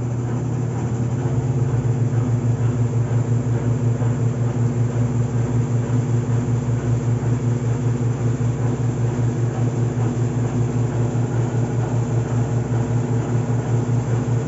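Consul 9 kg top-loading washing machine on its spin cycle: motor and drum running with a steady hum and a fast, even pulsing. The hum builds over the first second or two. It runs smoothly on a newly replaced bearing.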